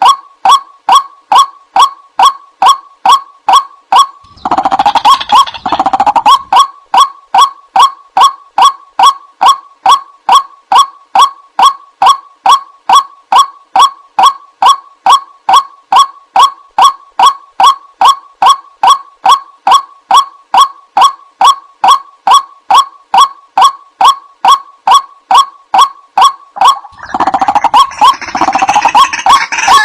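White-breasted waterhen calling: a fast, even series of short clipped notes, about three a second. Harsher, overlapping calls swell in around 4 seconds in, fade by about 6 seconds, and build again near the end.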